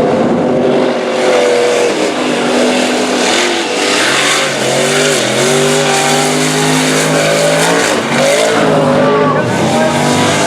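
Mud racing vehicle's engine running loud at high revs, its pitch rising and falling again and again as the throttle is worked.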